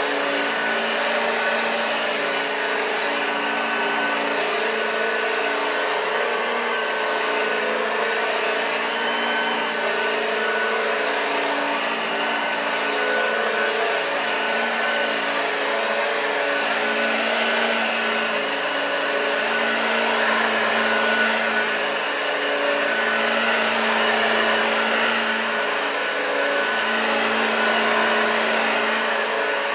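Hoover Junior U1206 upright vacuum cleaner running on carpet, its motor whine steady with small shifts in pitch over the brush noise of the beater-bar activator.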